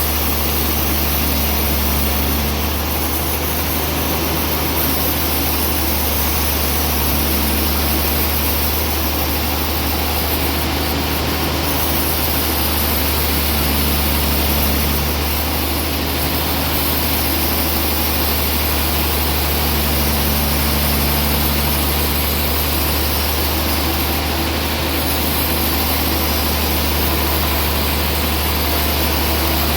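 Sawmill machinery running steadily, a loud mechanical drone under a constant noisy whir, with a slightly higher hum that comes and goes about every six to seven seconds.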